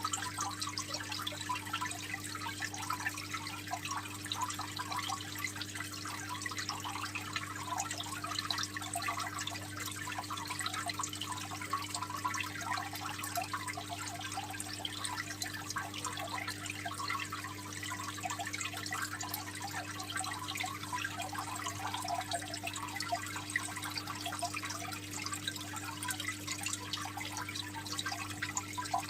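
Aquarium water trickling and splashing continuously, as from a filter outflow falling into the tank, with a steady low hum underneath.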